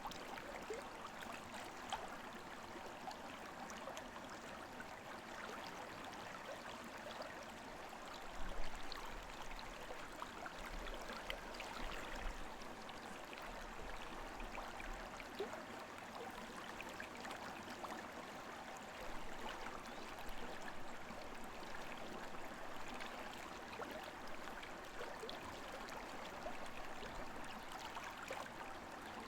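Shallow river babbling over stones: a steady rush of flowing water, with a brief low bump about eight seconds in.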